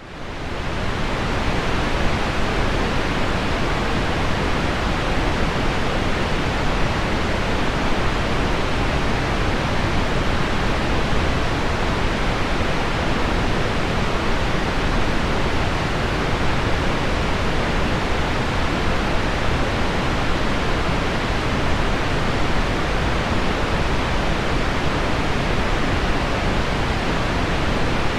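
Steady pink noise blended with heavy rain on window glass: an even, unbroken hiss with a deep low end. It fades in over the first second, then holds level.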